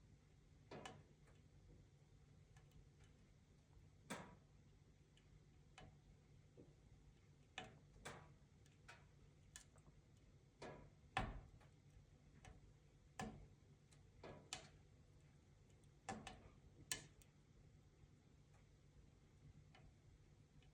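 Wood fire crackling in a wood-burning stove: scattered sharp pops and snaps at uneven intervals, a few every couple of seconds, over a faint low hum.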